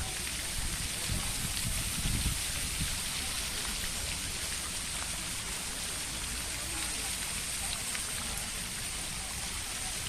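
Running water splashing steadily, a continuous patter like rain, with a constant high-pitched hiss over it.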